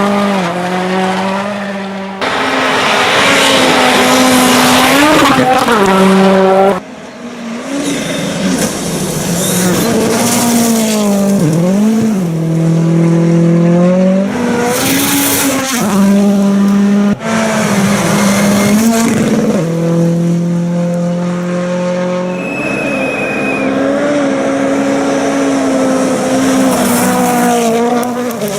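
Racing engines running hard at high revs, the pitch climbing and dropping as they accelerate and lift off, in a string of short clips cut together.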